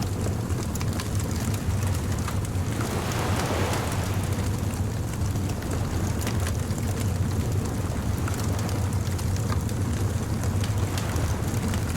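Surf washing on a beach over a steady low rumble, one wave swelling up about three seconds in, with the small scattered snaps of a bonfire crackling.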